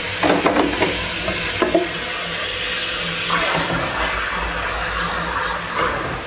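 Whole spices sizzling steadily in hot ghee in a wok, stirred with a silicone spatula, with a few short pops in the first two seconds.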